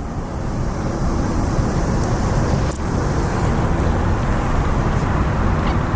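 Steady low rumble of car noise, with one short click about three seconds in.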